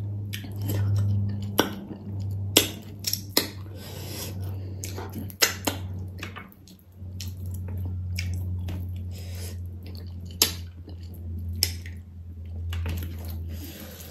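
Close-mic chewing and wet lip smacking of a person eating rice and pickled pork trotters, with several sharp smacks, over a low steady hum.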